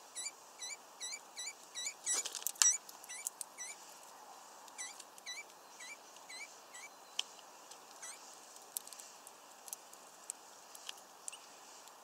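A small bird calling: one short hooked note repeated evenly about three times a second, thinning out and stopping about seven seconds in. Sharp clicks and taps are scattered throughout, loudest in a quick cluster about two seconds in.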